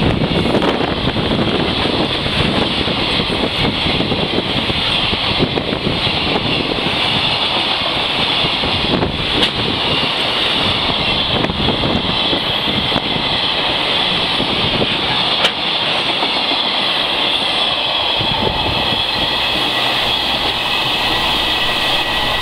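Freight train passing through at speed: steady wheel and rail noise from the wagons rolling by, with a few sharp clacks.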